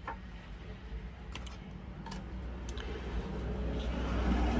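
A few light clicks and taps from small tools or parts being handled on a workbench, over a low steady hum that grows louder near the end.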